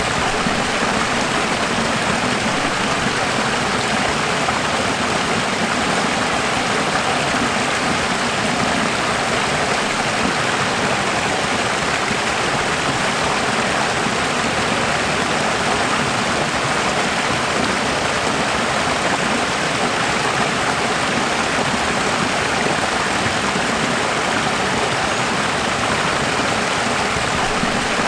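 Running water, a steady even rush with no change in level.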